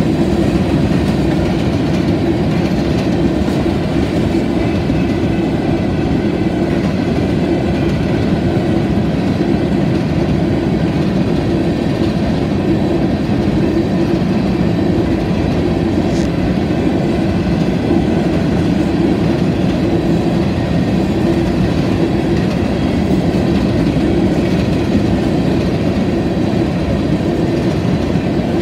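Freight train of covered hopper cars rolling steadily past: a continuous, even rumble of steel wheels on the rails.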